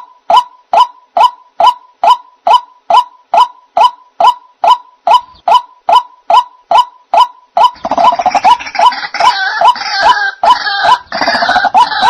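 White-breasted waterhen (ruak-ruak) calls used as a bird-trapping lure. Short, even call notes repeat about two to three times a second. About eight seconds in they give way to a louder, denser chorus of overlapping croaking calls.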